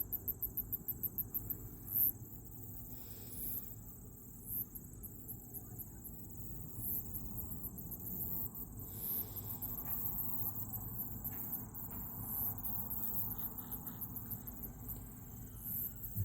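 Insects chirping, very high-pitched, in rapid pulsing trains that come and go, over a low steady rush.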